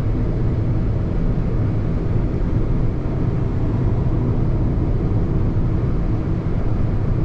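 Car driving along: a steady low rumble of engine and tyre road noise inside the cabin.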